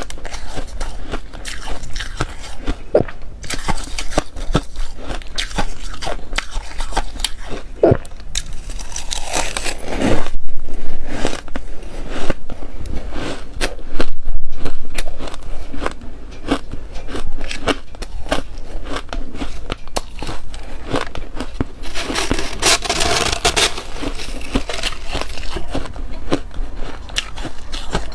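Close-up biting and chewing of freezer frost: a dense run of crisp crunches and crackles, with louder bites about ten and fourteen seconds in.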